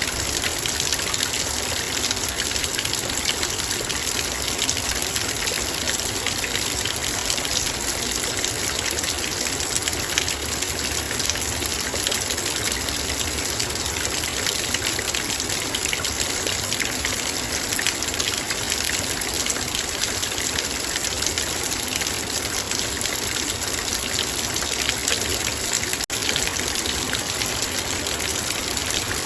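Heavy rain falling steadily on a metal bowl: a dense, even patter of drops over a constant hiss.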